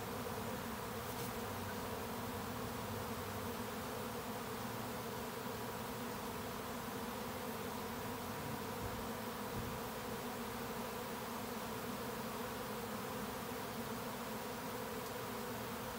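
Honey bee swarm buzzing, a steady hum of many bees in flight as the swarm settles onto a box.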